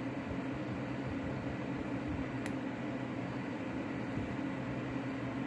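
Steady low machine hum in a small room, like a running fan, with one faint click about two and a half seconds in.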